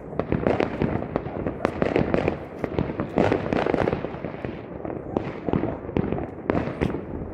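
Fireworks going off in a dense, irregular string of bangs and crackling pops.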